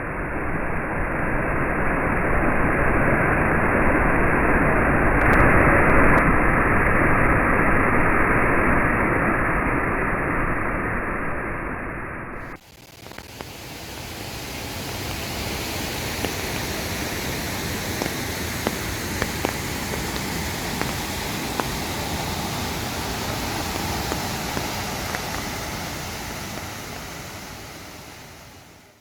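Steady rushing of a waterfall, muffled and dull for about the first twelve seconds. After an abrupt cut it gives way to a brighter, fuller rush with faint ticks, which fades out near the end.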